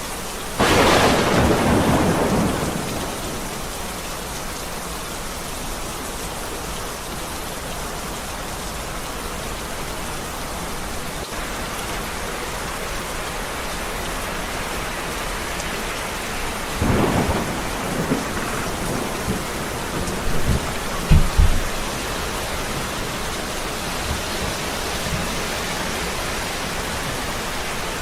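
Heavy steady rain with thunder: a sharp thunderclap just after the start that rumbles off over a couple of seconds, and a second, rolling peal of thunder after about 17 seconds with deep rumbles a few seconds later.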